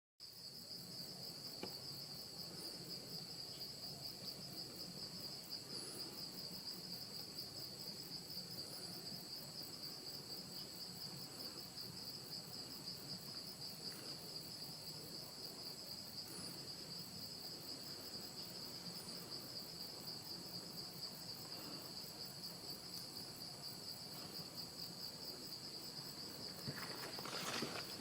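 Steady chorus of insects, a continuous high-pitched buzz that holds at one pitch throughout. A short louder noise comes near the end.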